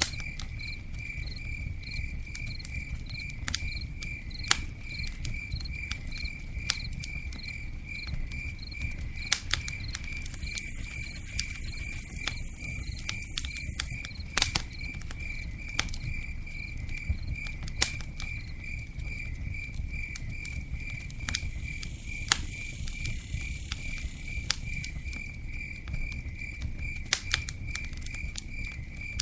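A campfire crackling with scattered sharp pops over a low rumble, while a cricket chirps steadily at a high pitch, about two to three chirps a second. A high hiss rises for a few seconds around the middle.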